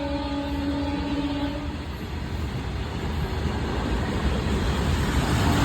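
Train horn sounding one steady note that cuts off about two seconds in, over the rumble of a running train that grows louder toward the end.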